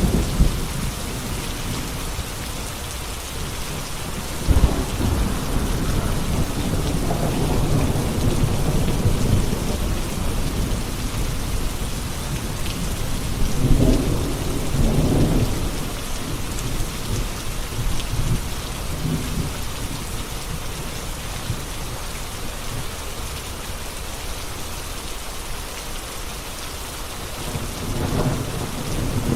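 Steady rain falling, with rolls of low thunder rumbling in and out: one about five seconds in, a stronger one about fourteen seconds in, and another building near the end.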